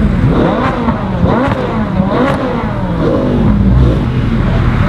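Several sports-car engines revving at once, their pitch repeatedly rising and falling and overlapping.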